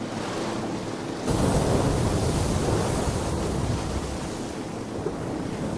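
Wind and sea noise on open water: a steady rush of waves with wind on the microphone, growing louder about a second in.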